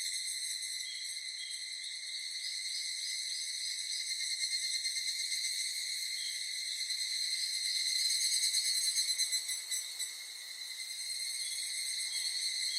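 Insects trilling steadily, a continuous high, shrill buzzing chorus that swells and fades a little.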